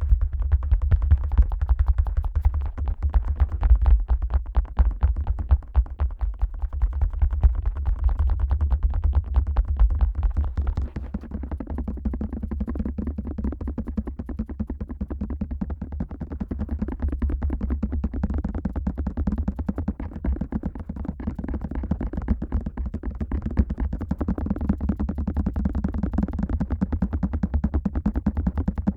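Fingertips tapping rapidly on the ears of a Neumann KU100 dummy head microphone, giving dense, deep thumps. About eleven seconds in, the tapping changes to a hollow, popping 'poko-poko' sound.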